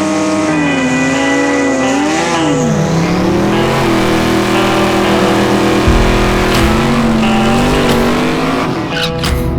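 Drag race car engine revving hard, its pitch holding, dipping and climbing again. A deeper low rumble comes in about six seconds in.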